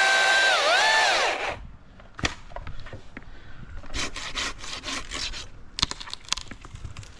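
Chainsaw cutting through a limb, its whine dipping in pitch once as it bites, then stopping about a second and a half in. Scattered knocks, clicks and rustling of branches and gear follow.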